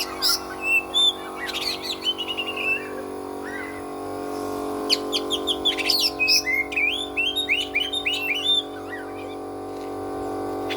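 Oriental magpie-robin singing a varied song of quick whistled and chirping notes in two runs, with a pause between them. A steady hum runs underneath.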